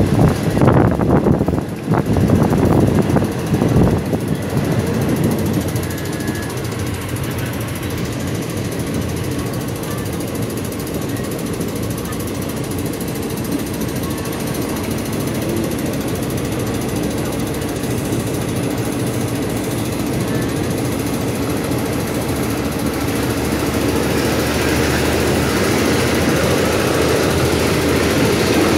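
Passenger train carriage with its windows open, running along the line: a steady rumble of wheels on the rails mixed with rushing air. A quick clatter of knocks comes in the first few seconds, and the noise grows somewhat louder near the end.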